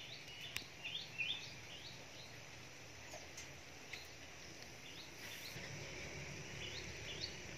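Birds chirping in short quick notes, a run of them in the first second or so and again near the end, over a faint steady outdoor background hiss.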